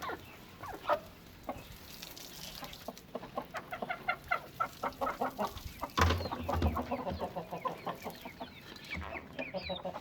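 Chickens clucking in quick runs of short repeated calls, busiest in the second half, with a dull thump about six seconds in.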